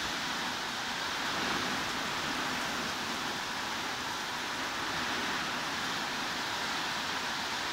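Heavy rain falling steadily, an even, unchanging hiss with no separate drops or thunder.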